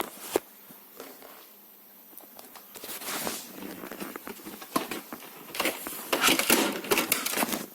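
Handling noises on a workbench: a couple of sharp clicks, then rustling and scraping that gets busier and louder, with rapid clicks, in the last two seconds.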